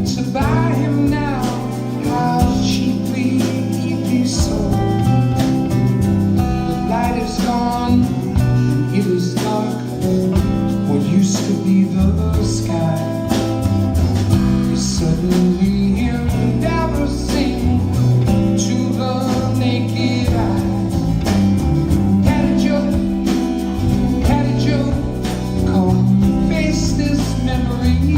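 A band playing a song, with guitar and singing throughout.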